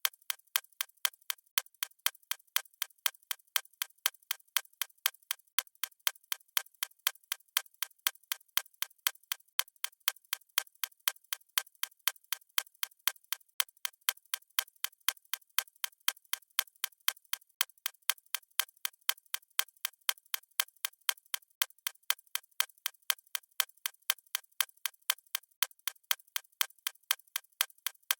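Clock ticking steadily, a sharp, even click repeating at a regular pace with no other sound.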